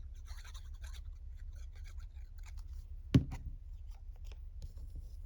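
Small paper craft pieces being handled at a table: faint rustles and light clicks, with one sharp tap or knock about three seconds in.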